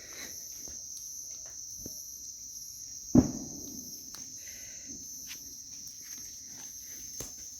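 Crickets chirping steadily, with one sharp thump a little over three seconds in and a few faint clicks.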